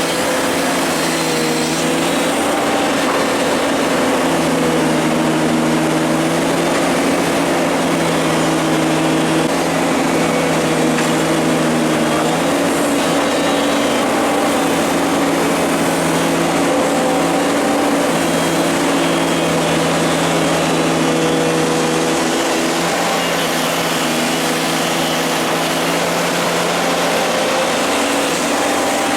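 Excavator's diesel engine running steadily under working load, its note stepping up and down every few seconds as the hydraulics are worked.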